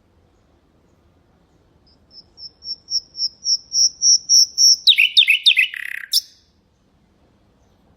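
Common nightingale singing one phrase. About a dozen repeated high whistled notes swell steadily louder, then a quick run of falling notes ends in a sharp click.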